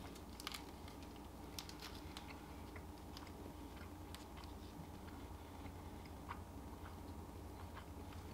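Faint, irregular mouth clicks of a person chewing a bite of smoked meat snack stick, over a steady low hum.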